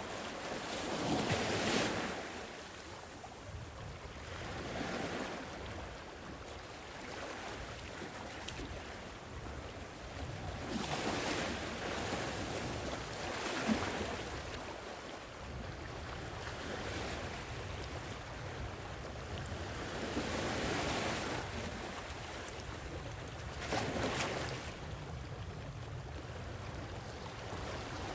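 Sea waves washing in, each swell rising and falling every few seconds over a steady wash, with light wind.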